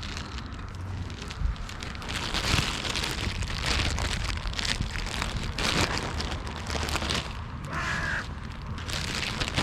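Wind buffeting the microphone in rough gusts, with crows cawing, one call held briefly near the end.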